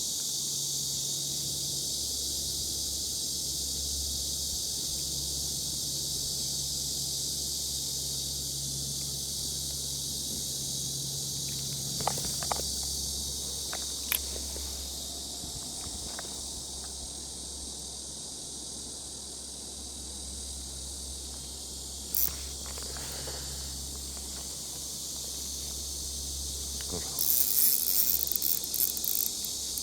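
Evening insects chirring in a steady, high-pitched haze over a low, even rumble, with a few sharp clicks and a quick run of louder clicks near the end.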